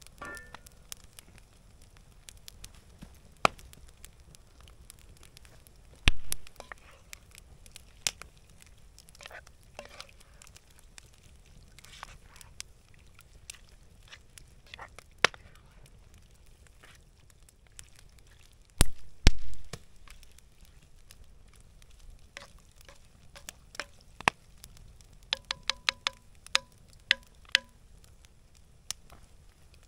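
Campfire crackling with scattered sharp pops, and two louder knocks. Near the end there is a quick run of ringing taps.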